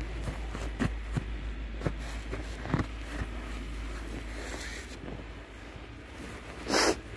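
Scattered crunches in deep snow over a low wind rumble on the microphone, with one louder, sharper crunch just before the end.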